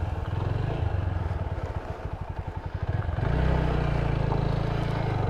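Motorcycle engine running at low revs as the bike rolls off slowly over a gravel track, its exhaust pulsing in quick even beats; about three seconds in the throttle opens a little and the engine note becomes steadier and louder.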